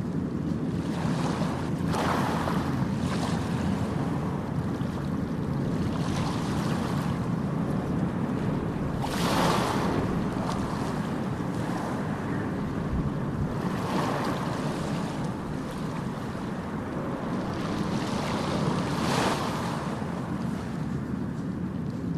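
Ocean surf: a steady low rumble of waves, with a wave swelling and breaking about every five seconds, four times in all, the loudest about nine seconds in.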